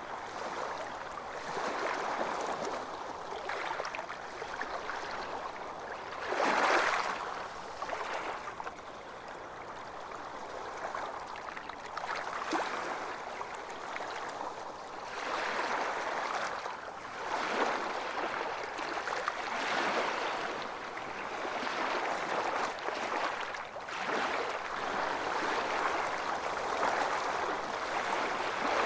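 Ocean waves breaking and washing on a beach, a continuous surf wash that swells and eases every few seconds, with the strongest break about seven seconds in.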